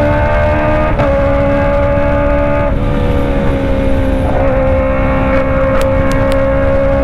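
Kawasaki ZX25R inline-four engine running at high revs through a Racefit Slash full-system exhaust, a steady high-pitched wail. The pitch dips briefly about a second in, again near three seconds and around four and a half seconds, then climbs slightly.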